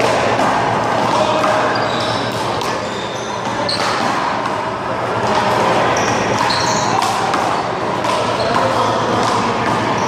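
Small rubber handball slapped by hand and smacking off a wall during a one-wall handball rally: several sharp hits at irregular intervals over a busy background.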